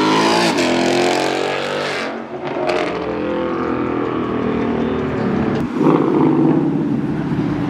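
Modified car engines revving and driving by at a car meet: one engine's pitch falls away over the first two seconds as the revs drop, and about six seconds in another engine comes up louder.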